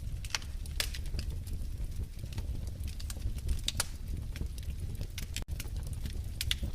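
Wood fire crackling in a fireplace: irregular sharp pops and snaps over a steady low rumble of the flames, with a split-second dropout about five and a half seconds in.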